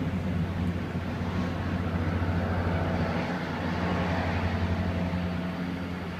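Snow plow truck's engine running as it passes, a steady low drone under tyre and road noise that swells through the middle and eases off near the end.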